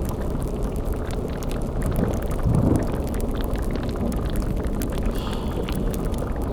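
Dark sound-effects ambience: a steady low rumbling drone with fine crackling through it, and a brief louder low surge about two and a half seconds in.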